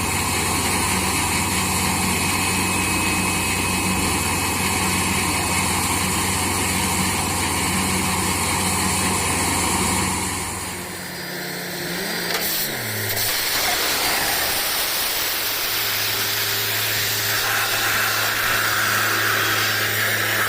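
Diesel engine of a borewell drilling rig running steadily under a loud hiss. About halfway through, the engine note drops away and a tone slides down in pitch; a few seconds later a steady, slightly lower drone takes over.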